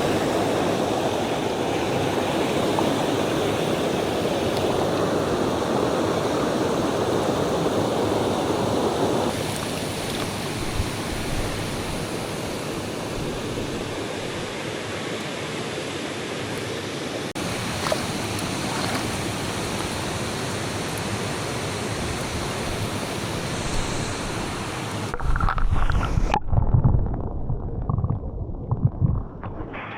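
Mountain stream water running with a steady rush. Near the end there are several seconds of low rumbling thumps while the stream sound turns muffled, typical of the microphone being handled or covered.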